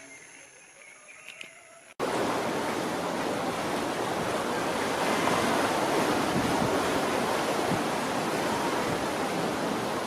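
Faint high chirps, then an abrupt cut about two seconds in to a loud, steady rushing noise like running water.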